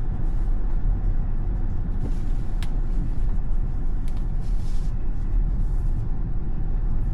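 Steady low rumble of road and wind noise inside a Tesla's cabin while driving through a windstorm, with a sharp tick about two and a half seconds in and another about four seconds in.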